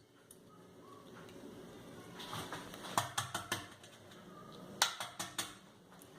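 A hard-boiled egg's shell being tapped and cracked against a hard surface: a tap about three seconds in, then a quick run of sharp taps near the end, with faint crackling of shell in between.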